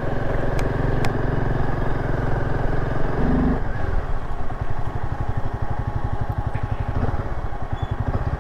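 Royal Enfield Himalayan 450's single-cylinder engine running as the motorcycle is ridden, with a short steady tone a little after three seconds. From about four seconds in, the firing pulses become slower and more distinct as the engine drops to lower revs.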